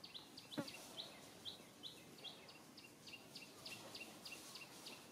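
A bird calling over and over, a steady run of short, high chirps that each fall in pitch, about three a second, with faint outdoor noise behind it. A single sharp tick comes about half a second in.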